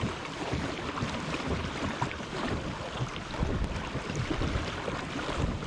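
Water splashing and lapping against a kayak hull, with wind buffeting the microphone.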